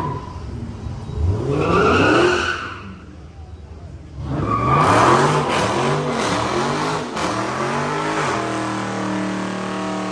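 A muscle car's V8 revving hard: one rising rev, then a string of about five quick rev blips, then the engine held steady at high revs near the end.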